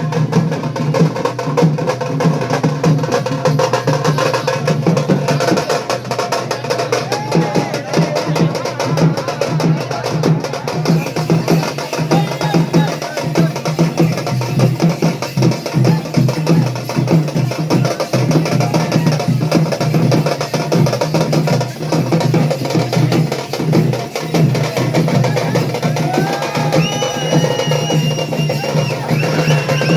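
Music of dense, fast drumming that runs without a break. Near the end, high held tones join it.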